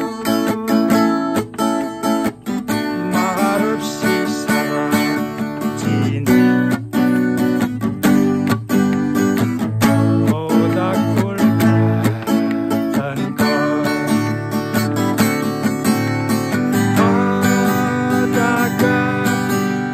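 Acoustic guitar strummed in a steady rhythm, playing an instrumental passage of a song accompaniment without voice.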